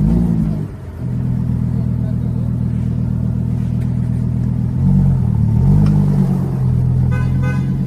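A car engine runs low and steady, with its revs rising and falling briefly about half a second in and again around five seconds in. A couple of short beeps sound near the end.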